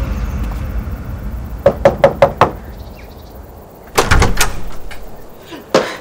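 Quick knocking on a wooden front door, about five raps in a row, followed about a second and a half later by a louder clatter as the door is unlatched and opened.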